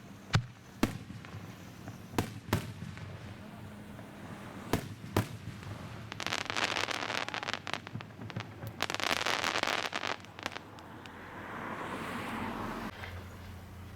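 Fireworks shells bursting in single sharp bangs, then two dense runs of rapid crackling from crackle-effect bursts.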